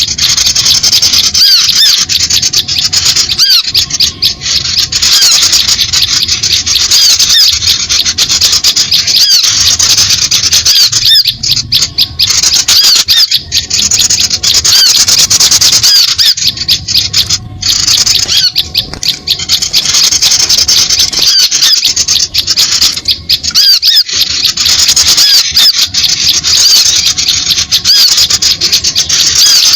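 A busy chorus of many small birds chirping and twittering non-stop, high-pitched and loud, as used for a bird-lure call.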